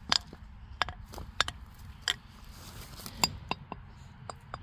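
Loose stones clinking and knocking against each other in a string of sharp, irregular clicks, about ten in all.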